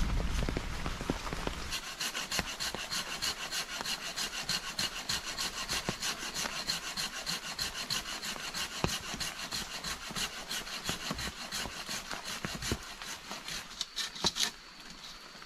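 Hand saw cutting wood in a steady rhythm of quick back-and-forth strokes, several a second, stopping near the end.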